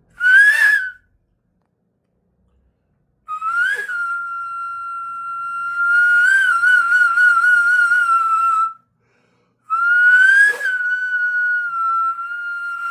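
Japanese stone flute (iwabue) being played: a short high note, then after a pause a long held note that wavers in its middle, then another long note that swells at its start and slowly sinks in pitch.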